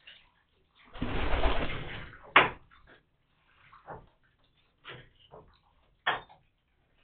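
Racing pigeons bathing in a large plastic tray of water: a loud burst of splashing and wing-flapping about a second in, then a sharp smack and several shorter splashes.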